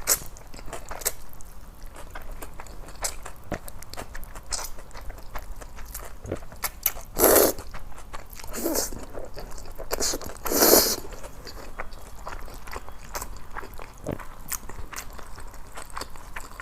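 Close-miked eating of seasoned thin noodles: wet chewing and small mouth clicks throughout, with two louder slurps of noodles, about seven seconds in and again near eleven seconds.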